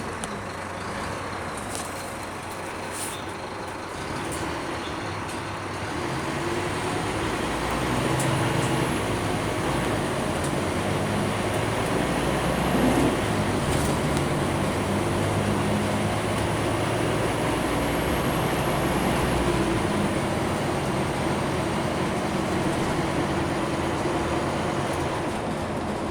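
Scania K310UB city bus heard from inside the cabin, its diesel engine running and getting louder about six to eight seconds in as it pulls harder, over steady road noise. A faint high whine runs through the middle, with a few light clicks.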